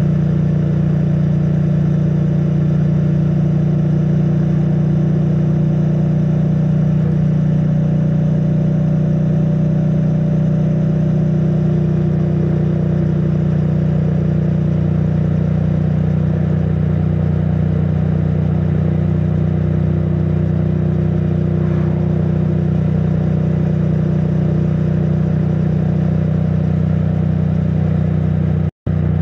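2022 Triumph Bonneville T100's parallel-twin engine running at a steady pitch through its stock exhaust while riding, picked up by a mic stuffed in the rider's backpack. The sound cuts out for a split second near the end.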